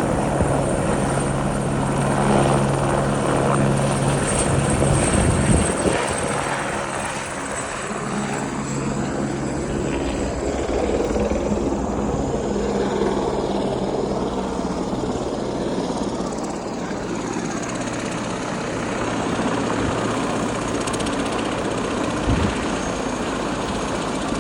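Helicopter flying overhead, a steady low engine and rotor hum that gives way after about six seconds to a broad rushing noise that slowly swells and shifts.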